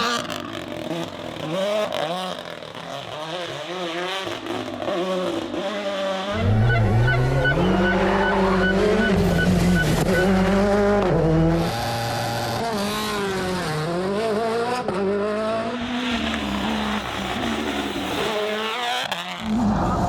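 Rally car engine revving hard, its pitch climbing and dropping again and again through gear changes, louder and heavier from about six seconds in.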